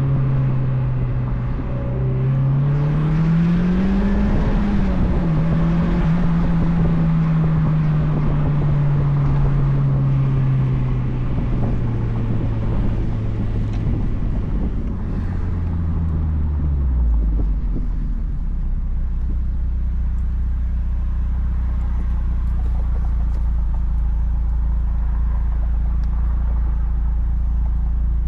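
2004 Mazdaspeed Miata's turbocharged four-cylinder running through an aftermarket cat-back exhaust: the revs rise under acceleration about two seconds in, ease off, sink slowly as it coasts, then drop to a steady idle after about 17 seconds. Wind and road hiss come with the open-top cockpit while it moves.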